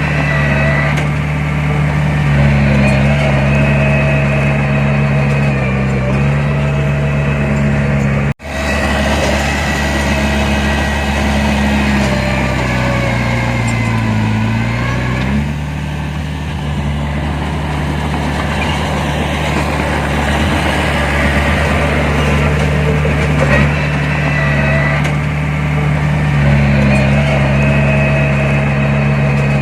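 Heavy diesel engine of earthmoving machinery running steadily under work. About halfway through its pitch dips and then rises again. The sound cuts out for an instant about eight seconds in.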